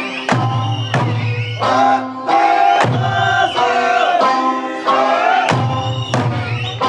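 Okinawan Eisa folk music: a singer with sanshin accompaniment and drum strikes on a steady beat, about three strikes every two seconds.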